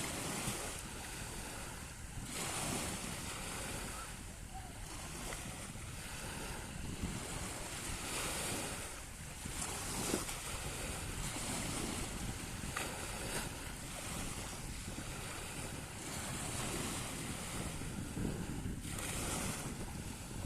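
Sea waves washing onto the shore, one hissing wash every few seconds, with wind rumbling on the microphone.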